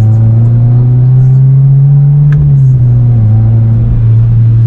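Car engine running under way with a steady droning note; the revs rise gently, hold, then drop back about halfway through.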